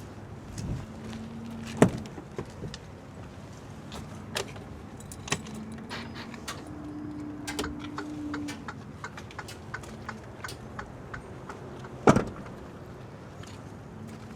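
Scattered clicks and knocks from handling around the truck, with two loud sharp bangs, one about two seconds in and one near the end, over a low hum.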